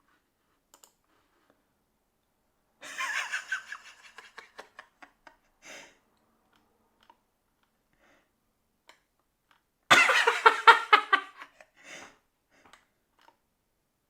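Two short bursts of a person laughing, with near silence between them.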